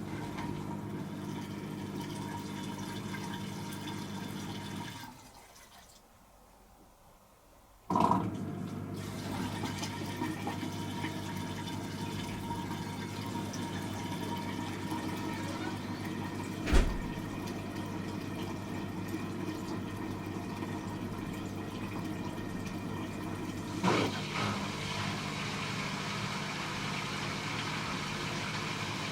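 Hoover H-Wash 300 Plus washing machine in its rinse cycle: water running through the machine over a steady hum. The water stops for a few seconds about five seconds in and starts again with a click. A sharp knock comes midway and another click near the end.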